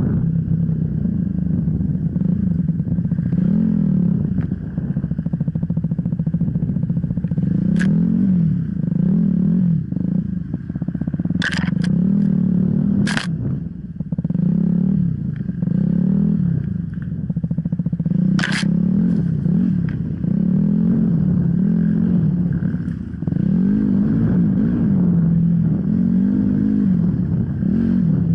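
Off-road motorcycle engine running under constantly changing throttle, revving up and falling back again and again, with a few sharp knocks.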